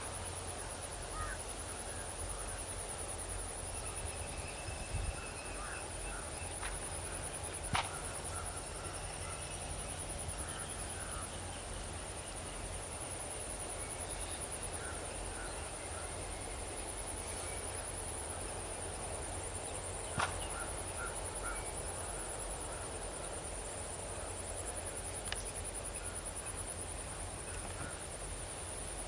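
Outdoor field ambience: a steady high-pitched buzz throughout, with short bird calls here and there. Two sharp clicks come about a third and two-thirds of the way through.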